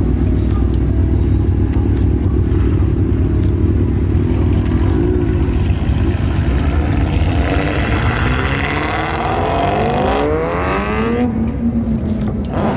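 Car engine idling, with a short rev about five seconds in, then accelerating away with its pitch climbing for several seconds before levelling off near the end.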